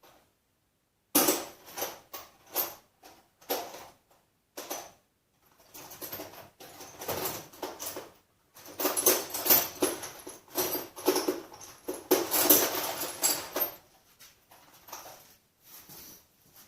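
Metal hand tools clinking and rattling in irregular bursts, as when sorting through sockets for the right size, busiest near the middle and end.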